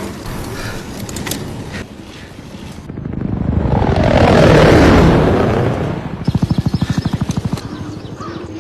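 An aircraft, likely a helicopter, passes overhead: a swelling rush whose pitch falls as it goes by, peaking midway, then a rapid rhythmic chopping of about ten beats a second for just over a second.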